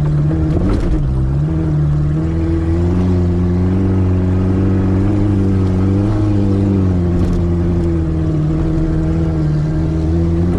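Dacia car engine running at steady, fairly low revs, its pitch rising and dipping slightly a few times as the car is driven off-road.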